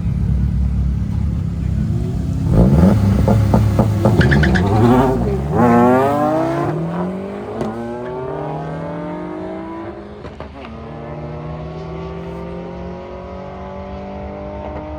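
Cars drag racing down the strip. A loud low engine rumble comes first, then a few seconds in the engines rev up steeply with rising pitch. After that the pitch climbs more slowly and the sound fades as the cars accelerate away.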